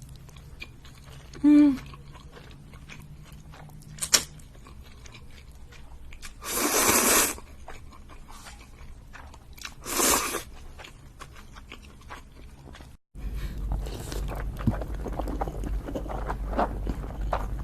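Close-miked eating of instant noodles, with chewing and biting. Two loud noisy bursts about a second long come midway, and after a sudden cut about 13 seconds in there is denser crunchy chewing over a low hum.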